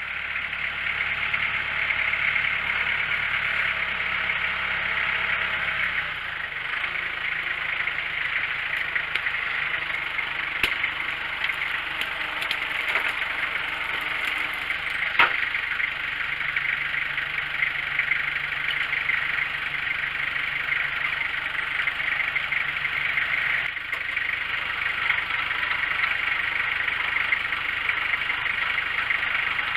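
Foley Belsaw M-14 circle sawmill running steadily, its engine hum and a strong hiss carrying on throughout. The low hum changes about six seconds in and again near the end. There is a sharp knock about halfway through.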